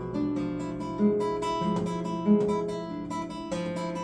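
Acoustic guitar being played: plucked notes and chords ringing on, with a strong accented pluck about every second or so.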